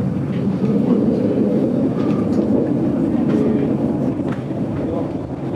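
GoldenPass Belle Époque vintage train running on the rails, heard from inside the carriage as a steady rumble with a few faint clicks.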